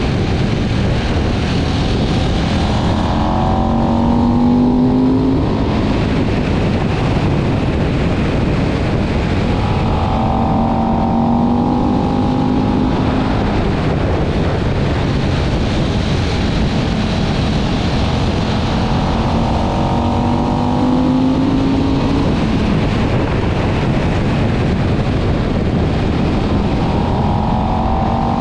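KTM 1190 Adventure's V-twin engine pulling hard at speed, its note climbing and falling back about four times as it is ridden through the revs. Heavy wind rush over the motorcycle runs throughout.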